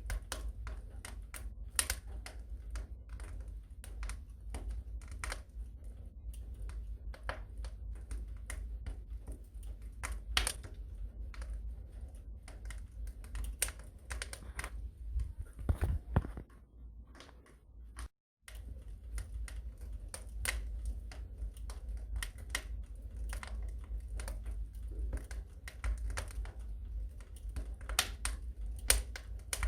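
Wood fire in a fireplace crackling and popping at irregular intervals over a low, steady rumble of flame. The sound cuts out briefly about eighteen seconds in.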